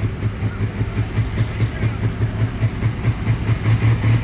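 A pulling machine's big engine running with a lumpy, pulsing idle of about four beats a second, getting louder toward the end.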